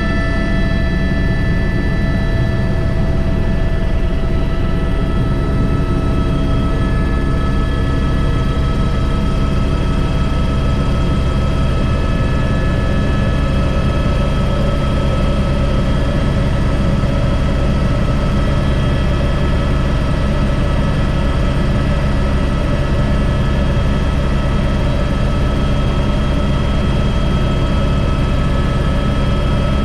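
Airbus H125 helicopter in flight, heard from inside the cockpit: a steady, loud rotor and drivetrain rumble with a high, even turbine whine of several steady tones over it, holding constant throughout.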